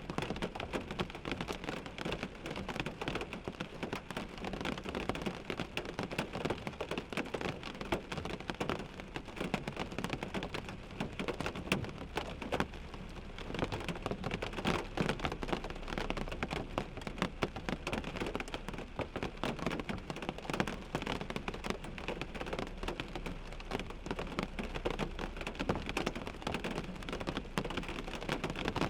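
Rain falling on a car windshield: a dense, uneven patter of drops striking the glass over a steady hiss.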